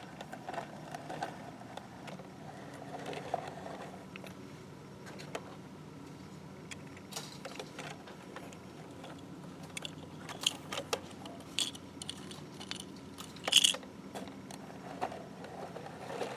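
Small clicks and rattles of a diecast model refuse truck being handled, scattered irregularly over a steady low hum, with a sharper cluster of clicks about three-quarters of the way through.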